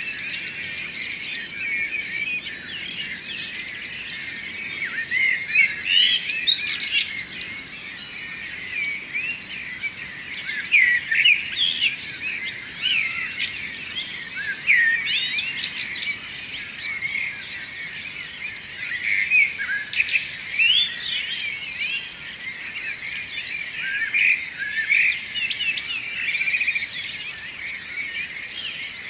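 Dawn chorus: many birds singing at once, a dense tangle of overlapping chirps, trills and short whistles with no pause, over a faint steady hiss.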